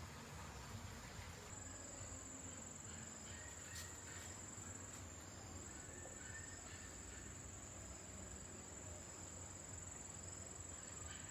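Faint, steady, high-pitched insect trill, cricket-like, that cuts off suddenly at the end.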